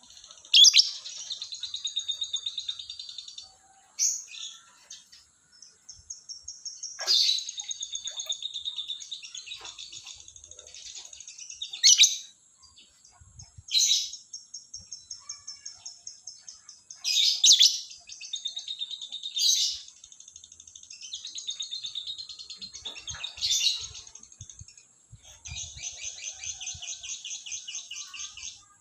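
Lovebird singing: sharp shrill calls, each followed by a long, fast, rattling chatter lasting a few seconds (the 'ngekek' trill that lovebird keepers prize). The pattern repeats about eight times.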